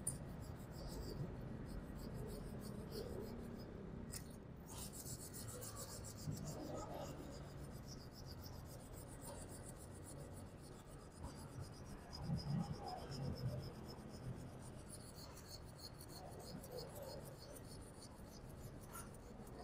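Faint scrubbing of a welding chipping-hammer brush across a fresh MIG weld bead, rubbing off the thin film of dust left on the thin steel box tubing, with a few louder scrapes about twelve seconds in.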